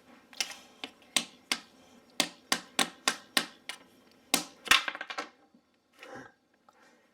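A small hammer striking a chisel into a plaster dig block, about a dozen sharp knocks roughly three a second, stopping about five seconds in.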